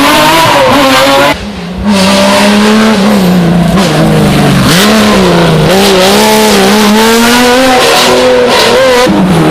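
Historic rally car engine at hard throttle on a special stage, very loud, its revs rising and falling through the corners. About a second and a half in the engine lifts off and goes quiet for half a second, then comes back on the throttle.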